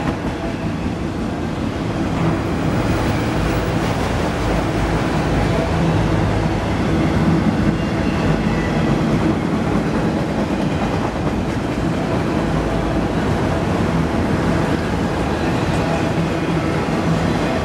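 Freight train of enclosed autorack cars rolling past: a steady rumble of steel wheels on the rails.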